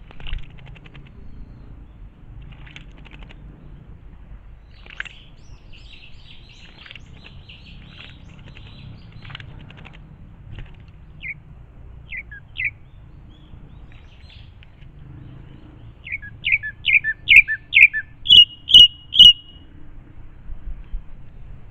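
Wild birds calling: scattered faint chirps and short twitters, then near the end a loud run of eight sharp notes over about three seconds, the first five dropping in pitch and the last three higher.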